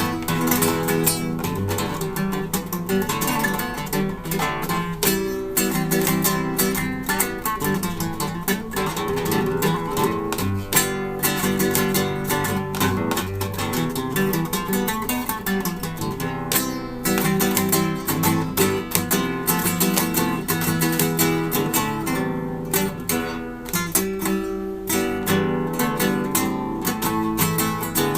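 Acoustic guitar being played without a break, a dense run of strummed chords and plucked notes.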